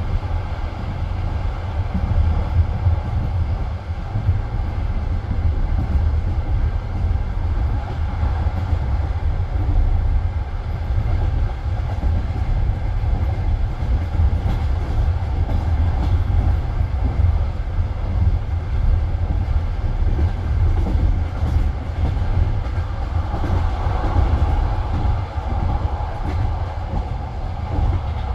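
Passenger train carriage running on the rails, heard from inside the coach: a steady low rumble with the knock of the wheels over the track.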